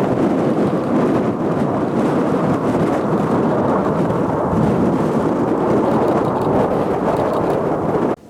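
Kawasaki T-4 jet trainers passing overhead, a loud steady rumbling roar, mixed with strong wind buffeting the microphone; the sound cuts off abruptly near the end.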